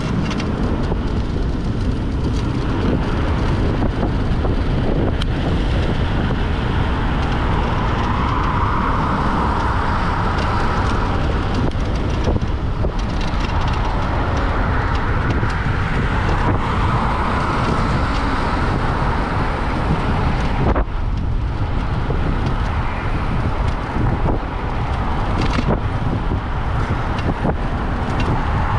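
Wind rushing and buffeting over the microphone of a moving electric moped, mixed with road and traffic noise that swells and fades a few times.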